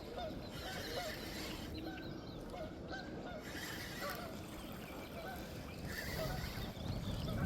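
Birds honking repeatedly, short bending calls one or two a second, over a steady low rumble.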